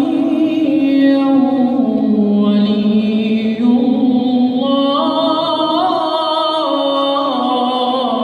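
A man chanting the Shia call to prayer (adhan), singing the line "ashhadu anna Aliyyan waliyyu-llah" in long held, ornamented notes that slide up and down in pitch.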